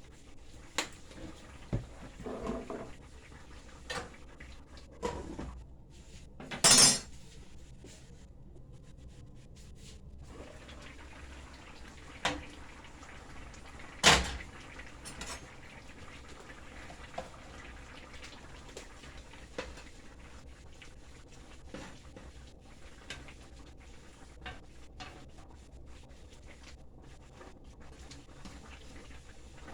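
Kitchen handling sounds: scattered knocks and clatter of pots, dishes and utensils, with a louder clatter about seven seconds in and a sharp knock about fourteen seconds in.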